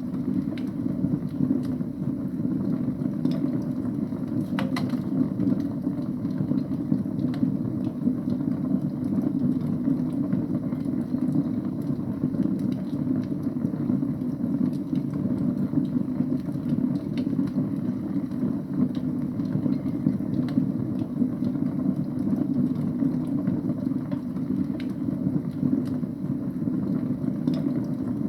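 Wood fire burning in a fireplace: a steady low rumble of the flames with scattered faint crackles and pops, the clearest about five seconds in.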